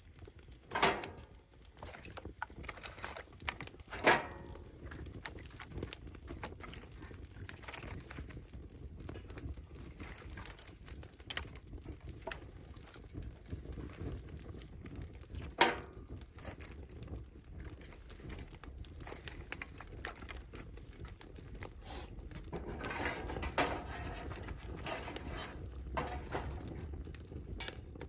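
Three sharp knocks, about a second in, about four seconds in and midway, among scattered small clicks and rustling that thicken near the end.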